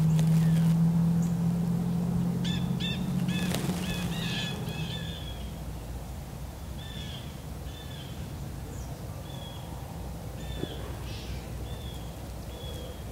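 A steady low drone, loudest at the start and fading away about five seconds in, with a bird calling over it in short, hooked high notes, a quick run of them early and then about one call a second.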